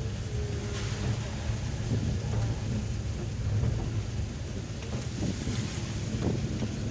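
Cabin noise of a Suzuki Carry Futura pickup driving in heavy rain: a steady low engine and road rumble under the hiss of rain on the roof and windscreen.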